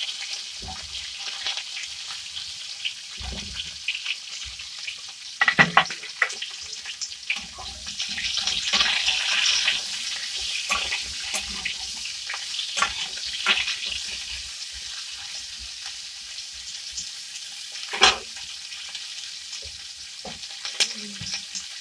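Cauliflower florets sizzling as they shallow-fry in hot oil in a metal kadai, stirred and tossed so that they scrape and clack against the pan. A steady hiss runs under scattered sharp clicks, the loudest a quick cluster about a quarter of the way in and a single clack later on.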